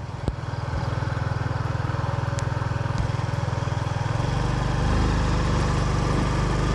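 A vehicle's engine running steadily, growing louder about four seconds in, with a single sharp click near the start.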